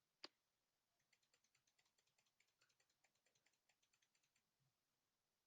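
Near silence with faint computer keyboard typing: one sharp click just after the start, then a run of quick, light key clicks for a few seconds.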